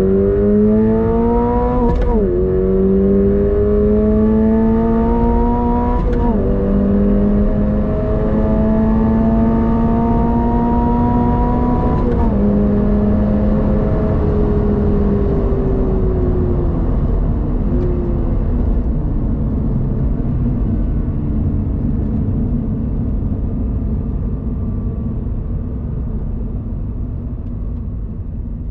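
2023 Toyota GR86's 2.4-litre flat-four engine accelerating hard through the gears. The revs climb and drop back at three upshifts, about two, six and twelve seconds in. The engine note then falls away as the car eases off, fading toward the end.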